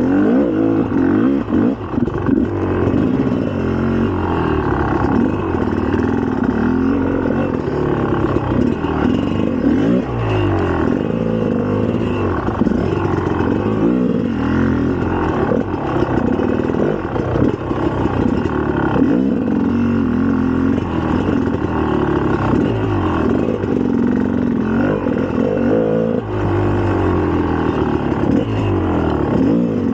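2004 GasGas EC300's 300 cc two-stroke single-cylinder engine being ridden, revving up and falling off again every second or two as the throttle is worked.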